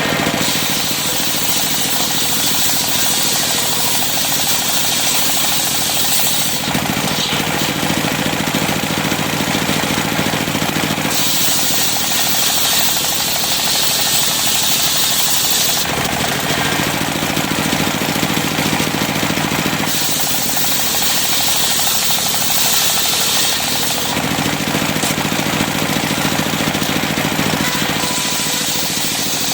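Sawmill circular saw running steadily and cutting cempaka timber. Its sound alternates every four to five seconds between a bright, hissing cutting sound and a lower hum as successive passes go through the wood.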